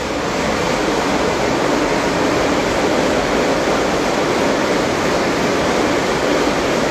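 Marble gang saw running as it cuts stone blocks: a loud, steady rushing noise that grows slightly louder over the first couple of seconds and then holds.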